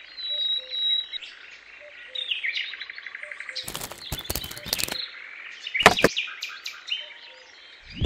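Birds chirping steadily. About four seconds in comes a quick run of small clicks and knocks, and near six seconds one sharper, louder knock, as small craft pieces are handled and set in place.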